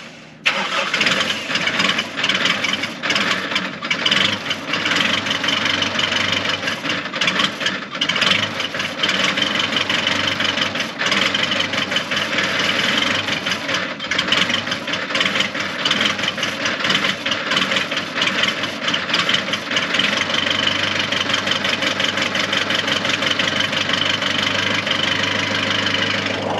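Diesel tractor engine running steadily with a busy clatter after a brief gap near the start, its fuel filter just primed to bleed air from a fuel system that loses prime.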